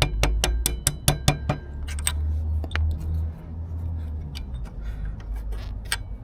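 Metal hand tools working on a motorcycle's front brake caliper during brake pad removal. There is an even run of sharp metallic clicks, about five a second, for the first second and a half, then a low rumble with a few scattered metal clinks.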